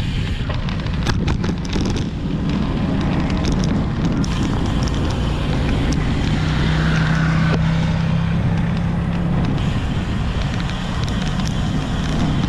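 Wind buffeting the microphone with road and traffic noise while riding a bicycle. A steady hum comes in for a few seconds in the middle, and there are a few sharp clicks near the start.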